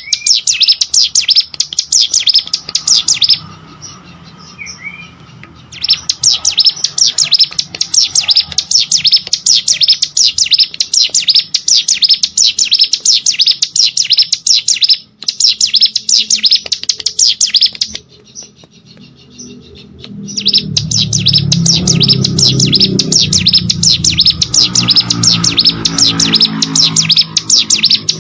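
Ciblek sawah, a small prinia, singing a loud, rapid, dense string of high chirps in long bouts, pausing twice for a couple of seconds.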